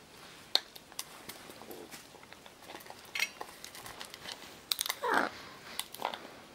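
Scarlet macaw moving about: scattered light clicks and knocks, with a short throaty sound about five seconds in.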